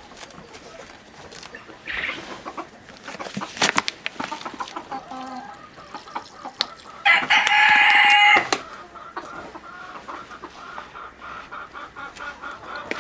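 Chickens clucking, with a rooster crowing once: one long, loud call about seven seconds in. A few sharp knocks sound around four seconds in.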